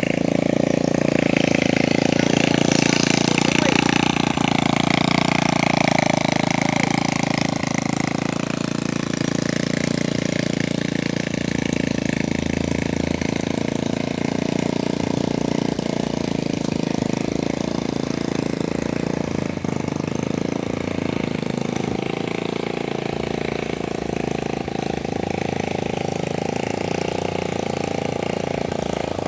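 A vehicle's engine running steadily at an even speed.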